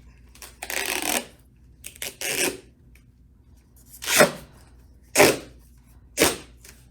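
Duct tape pulled off the roll and torn in about five short ripping strips, a second or so apart.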